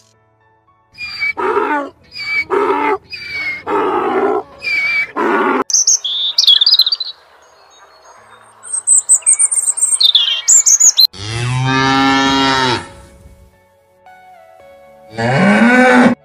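A series of animal calls: five short pitched calls one after another, then high chirping, then one long low call about eleven seconds in, and another low call rising near the end.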